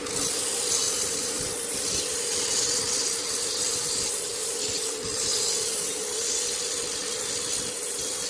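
Wood lathe running, with a turning tool scraping against the spinning wood: a steady motor hum under a continuous hissing scrape.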